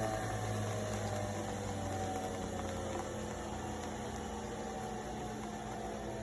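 Nespresso Vertuo Next coffee machine running its brew cycle: a steady motor and pump hum whose higher tones slowly sink in pitch, easing off slightly about three seconds in.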